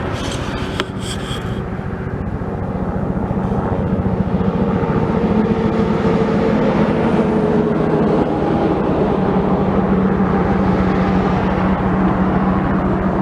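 Helicopter running with a rapid, continuous rotor chop and a steady engine hum underneath, growing louder over the first few seconds and then holding steady, as on take-off.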